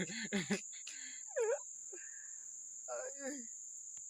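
Steady high-pitched insect chorus, like crickets, with a few short voice sounds.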